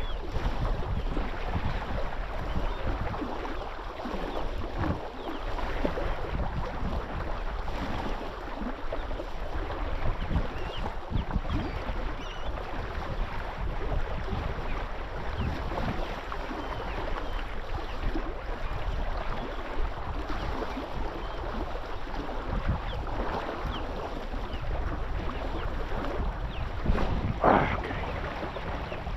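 Water lapping and splashing against a small boat's hull, with wind on the microphone. A brief louder sound stands out near the end.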